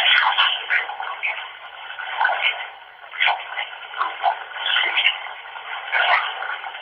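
Running bath water from a tap, a continuous rushing hiss with uneven surges, heard through a phone's narrow, tinny sound.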